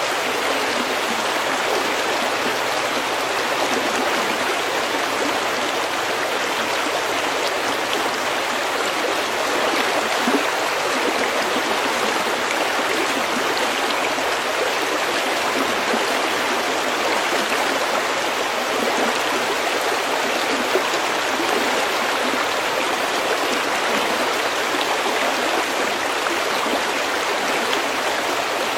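Snowmelt stream flowing steadily over pebbles: an even, unbroken rush and burble of water.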